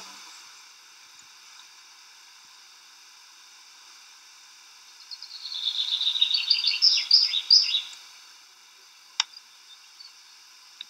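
A songbird singing: a run of quick chirping notes lasting about three seconds, starting about five seconds in, over a steady hiss. A single sharp click follows about a second later.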